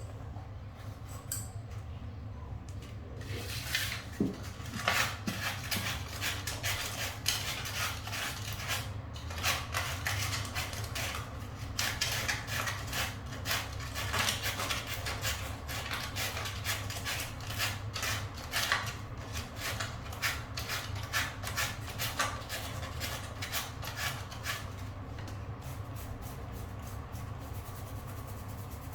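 Rapid, repeated scraping strokes by hand, starting about three seconds in and dying away near the end, over a steady low hum.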